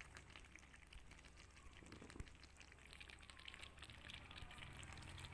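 Faint crackling sizzle of chicken and spice masala cooking in a kadai as water is worked in, with one light knock about two seconds in.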